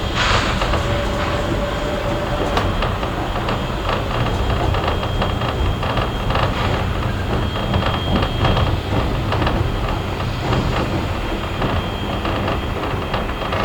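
A heritage passenger carriage running on rails behind a steam locomotive: a steady rumble with continuous wheel and body rattle, a faint thin squeal, and a brief hiss right at the start.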